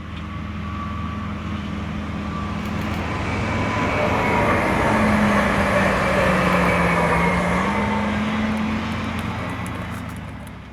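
An electric train passing on a main line: a steady hum with a higher tone that drops in pitch about halfway through and rises again, growing louder toward the middle and fading away.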